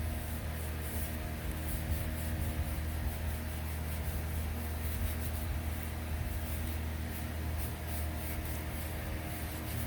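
Yamaha YZ250 two-stroke engine running steadily at a constant speed.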